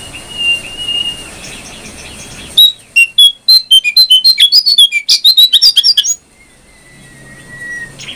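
Jongkangan coklat songbird singing. A thin held whistle gives way to about three and a half seconds of loud, rapid, varied chirping notes. The chirping then stops abruptly and is followed by a faint long whistled note that falls slightly.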